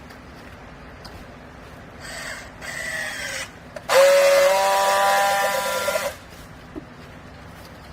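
A used-clothing jug baler's motor and hydraulic drive whine under load for about two seconds, starting about four seconds in and cutting off sharply, over a hiss. A shorter, quieter noisy burst with a falling whine comes about a second before it.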